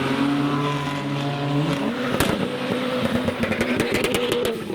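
Modified car's engine revving as it pulls away, with a sharp exhaust pop about two seconds in and a quick run of crackling pops near the end.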